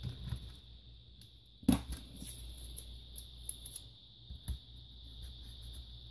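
Scattered light clicks and taps of a screwdriver and small laptop parts being handled during disassembly, with one sharper knock a little under two seconds in.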